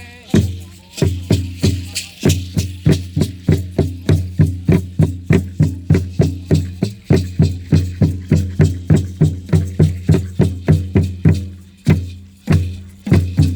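Mexica ceremonial drumming: a large drum beaten in a fast, steady rhythm of about four strokes a second, each stroke ringing low, with rattles shaking along with it. The beat breaks off briefly near the end and then resumes.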